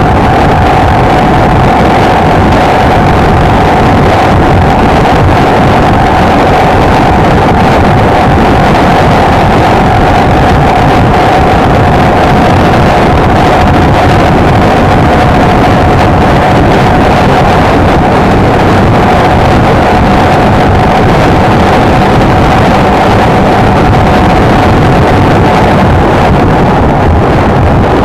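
Honda XLR125R's single-cylinder four-stroke engine running at an even, steady cruise, with heavy wind rushing over the microphone.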